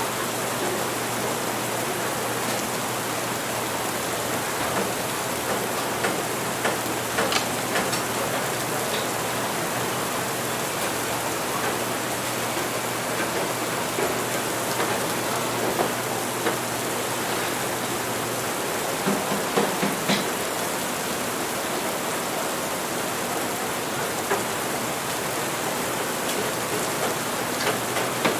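Steady rain in a café ambience mix, with a few short clinks scattered through and a low hum that stops about two-thirds of the way in.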